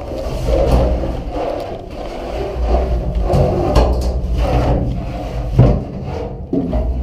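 Rubbing and scraping with a few dull knocks, about three in the middle of the stretch: the noise of a person moving through an aircraft fuel tank, with clothing and the camera brushing against its structure.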